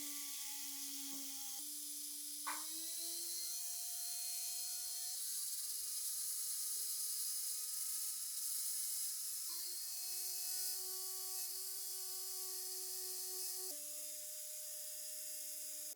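A small high-speed power tool's motor whirring with a hiss. Its pitch shifts abruptly to new levels several times, and there is a single sharp click about two and a half seconds in.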